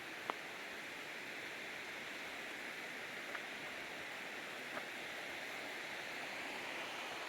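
Steady rushing of a river or stream, an even hiss with no break. A sharp click about a third of a second in and two fainter ticks later stand out above it.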